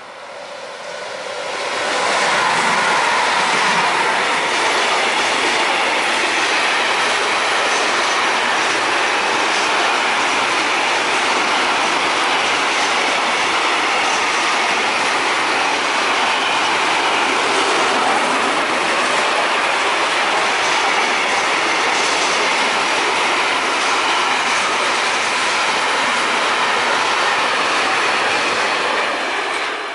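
Intermodal freight train passing close at speed: the electric locomotive's approach builds up over the first two seconds into a loud, steady rush of wheels on rail from the long string of container and lorry-trailer wagons, easing off only at the very end.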